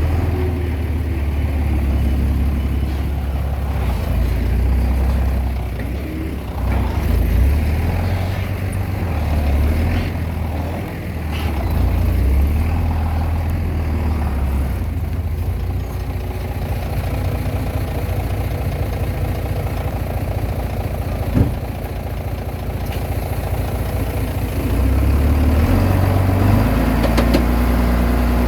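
Komatsu D20P bulldozer's diesel engine running as it works, its low note shifting up and down with the load and growing louder near the end. A single sharp knock stands out about two-thirds of the way through.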